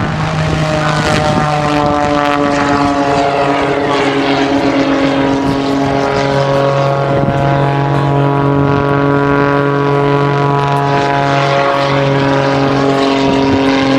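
Propeller airplane engine droning steadily, its pitch sagging slightly near the end.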